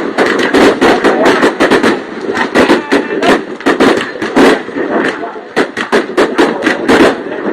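New Year's Eve fireworks display: loud aerial shell bursts and crackling reports, several a second in an irregular run, over the steady hubbub of a watching crowd's voices.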